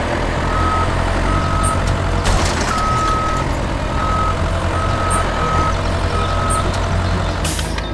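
Heavy-machinery engine running steadily, with an electronic reversing alarm sounding about seven short, unevenly spaced single-pitch beeps over it. A short burst of hiss comes near the end.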